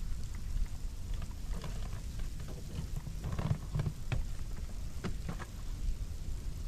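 Blizzard wind buffeting the microphone, a steady low rumble. A few scattered crackles and taps come through near the middle.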